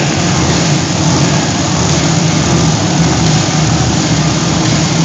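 Monster truck engine running loud and fairly steady, with a deep low hum under a broad noisy wash.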